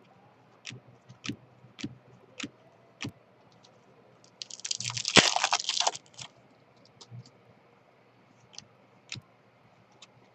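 Scattered light clicks and taps of trading cards being handled, with a burst of crinkling from a card-pack wrapper for about a second and a half near the middle.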